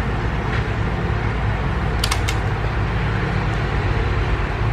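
Steady low background rumble, with three quick clicks close together about two seconds in.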